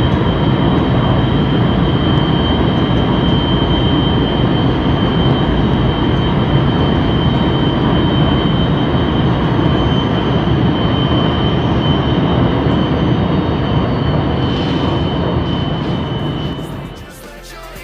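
Light-rail (LRT) train running at speed: a steady rumble with a constant high-pitched whine on top, fading away near the end.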